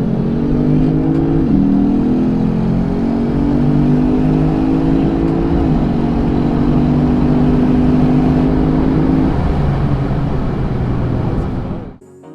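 A V8 car engine accelerating hard through the gears, its pitch climbing and dropping at two upshifts, about a second and a half and about six seconds in. It eases off near the end and then cuts off suddenly.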